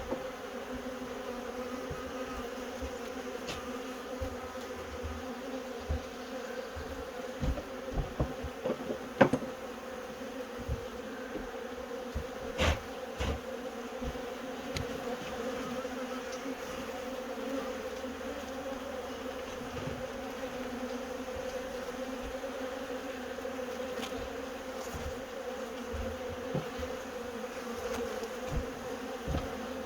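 A honey bee swarm buzzing, the steady hum of many bees close to the microphone, with a few short knocks.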